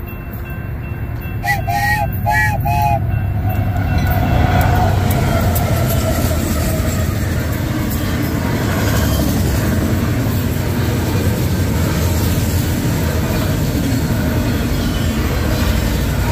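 Union Pacific freight train passing close by: the lead GE AC44CW diesel locomotive approaches and goes past, then a long string of autorack cars rolls by with a steady rumble and rattle of wheels on rail. Three short pitched tones sound about two seconds in, and a tone falls slowly in pitch as the locomotive passes.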